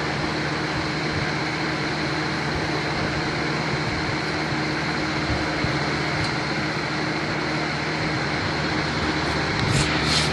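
Lasko box fan running steadily with a constant hum and airflow hiss, its intake 80% blocked by cardboard to imitate a clogged condenser coil. A couple of brief rustles near the end.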